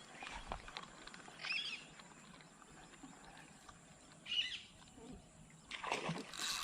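A bird calling outdoors: short chirps about a second and a half in and again at about four and a half seconds, then a brief noisy rush near the end.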